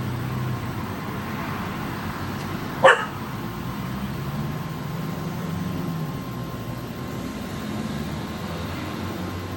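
A dog barks once, sharp and short, about three seconds in, over steady background noise with a faint constant hum.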